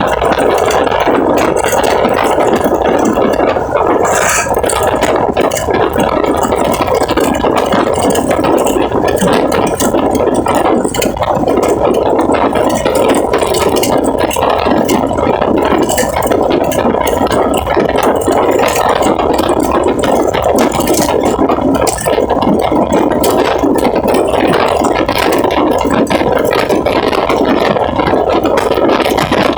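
An engine running steadily with a continuous rattle.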